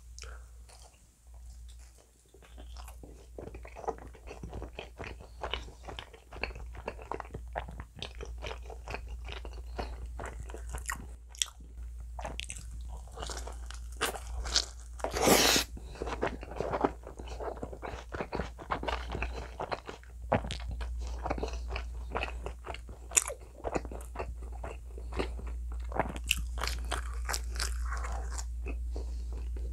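Close-miked biting and chewing of pizza: crisp crust crunching and sticky mouth noises in an irregular run, with one especially loud crunch about halfway through.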